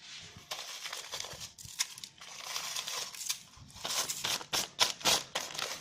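Dry whole spices, such as bay leaves, being handled and dropped into a vessel: irregular crinkling and rustling with scattered sharp clicks, busiest in the second half.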